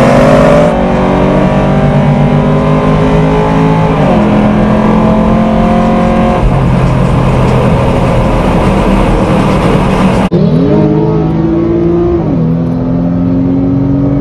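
Cammed 6.2-litre V8 of a 5th-gen Camaro SS (L99) with an automatic transmission, running at wide-open throttle in a roll race. Its pitch climbs, then drops as the automatic upshifts, and climbs again. There is an abrupt cut about ten seconds in.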